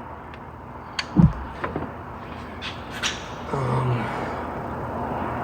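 Sharp clicks and knocks of a tool against metal parts as a component is pried up in a car's engine bay, with one loud dull thump a little over a second in.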